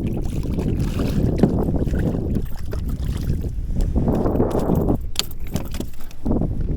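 Wind buffeting the microphone on an ocean kayak, with water against the hull, and a few light clicks about five seconds in.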